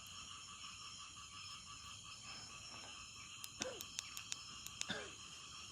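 Steady night chorus of insects and frogs, a constant high ringing trill. A few sharp clicks and two brief sounds that slide downward in pitch come in about three and a half and five seconds in.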